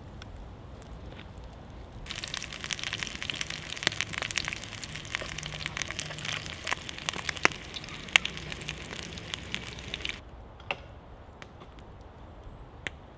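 Duck legs sizzling in a cast iron Dutch oven over a campfire: a dense hiss with sharp pops and crackles that starts suddenly about two seconds in and cuts off suddenly after about eight seconds.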